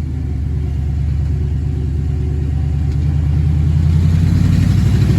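Jeep CJ5's AMC 304 V8 running while the Jeep is driven, its note growing steadily louder toward the end.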